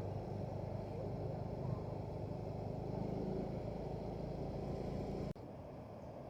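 Motorcycle running while riding, a steady engine hum under wind rumble on the microphone. The low rumble drops off abruptly about five seconds in.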